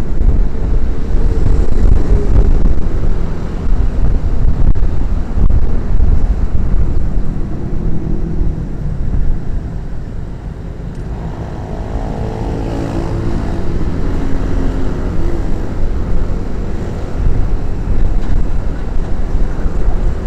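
Motorcycle riding along a highway, heard from a sports camera on the bike: a steady low rumble of engine and road noise. From about halfway through, a pitched engine drone stands out.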